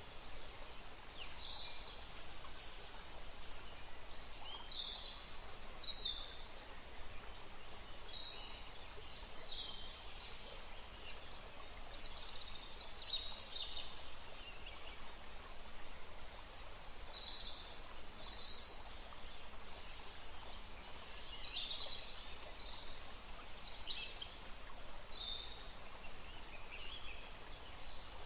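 Forest ambience: small birds chirping in many short, high calls, scattered and overlapping, over a faint steady hiss.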